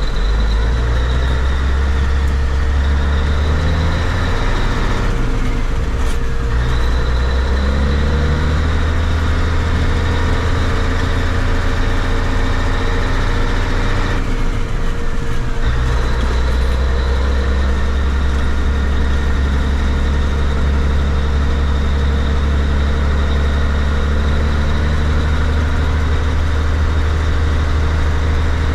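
Caterpillar 3406A inline-six diesel of a Kenworth K-100 cabover semi running under way. The engine note dips briefly twice, about five and fourteen seconds in, typical of gear shifts.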